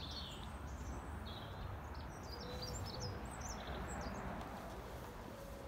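Small birds chirping in short high notes, a cluster of calls through the middle, over a steady background hiss with a low rumble.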